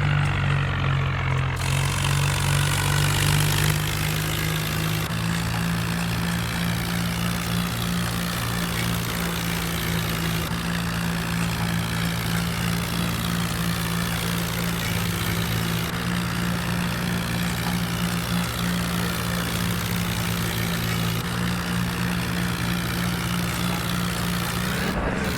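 Swaraj 4x4 tractor's diesel engine running steadily at a constant speed, with a slight drop in loudness about four seconds in.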